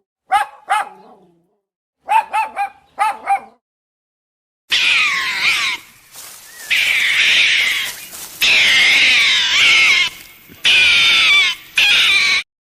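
A small dog yipping in short, high barks, a pair and then a quick run of four. It is followed by several seconds of dense, high-pitched, wavering whines that cut in and out in segments.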